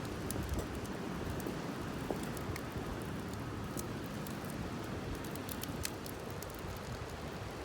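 Wood campfire crackling, with sharp irregular pops and ticks over a steady low rumble.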